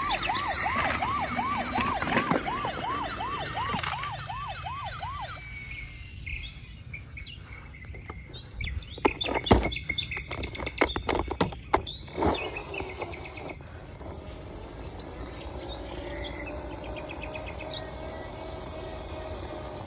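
Electronic siren of a toy police car, a fast warble of about four cycles a second that stops about five seconds in. Later comes a cluster of sharp plastic clicks and knocks.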